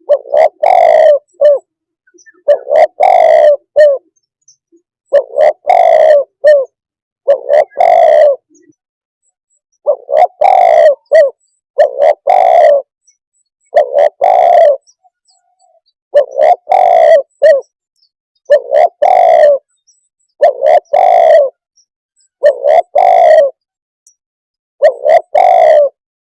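Spotted dove cooing: a loud, repeated call of a few soft notes, about one second long, given roughly every two seconds, a dozen times over.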